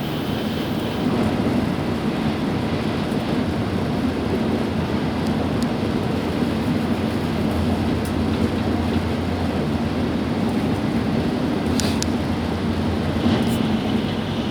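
Tokaido Shinkansen bullet train running, heard from inside the passenger car: a steady rumble and rush of wheels and air, with a couple of faint brief clicks near the end.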